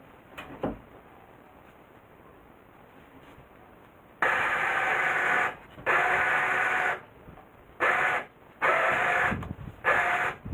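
A winch motor running in short bursts, started and stopped four or five times as a hinoki log is hoisted, each run about half a second to a second and a half long with a steady pitch.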